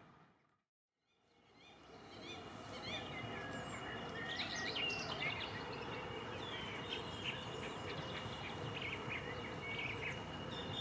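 Birds chirping and singing over a steady outdoor hiss, with a thin steady high tone underneath. The sound fades to silence in the first second and fades back in.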